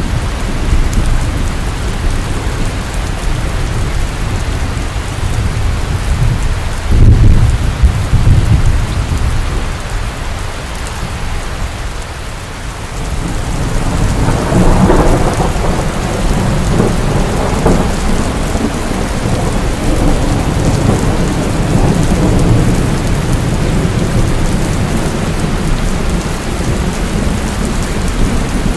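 Steady heavy rain with thunder: a loud low rumble about seven seconds in, and from about halfway a longer rolling peal that lasts several seconds before dying back into the rain.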